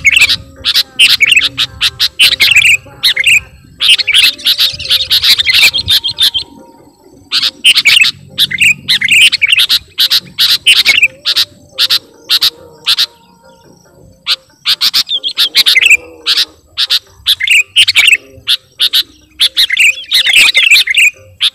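Sooty-headed bulbul (kutilang) singing loudly, in bursts of quick chirping notes separated by short pauses, a song used to call a rival bird.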